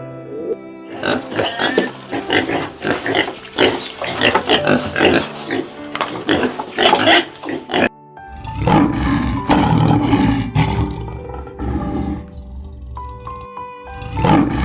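Animal calls, a dense run of short calls followed by a heavier, lower stretch, over steady background music.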